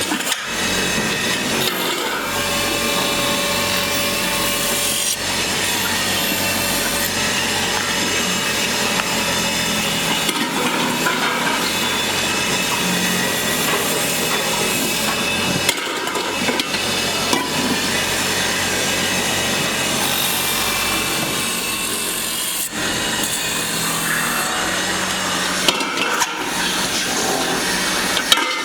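Steady scraping and rasping of a tool working hard material, with some steady high ringing tones in it. The sound changes abruptly a few times.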